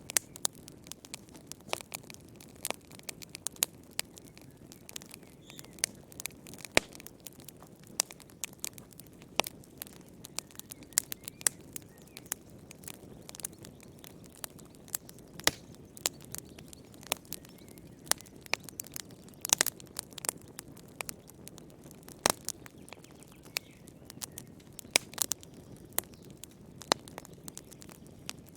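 Wood fire in a fireplace crackling: irregular sharp snaps and pops, several a second, over a steady low hush of burning.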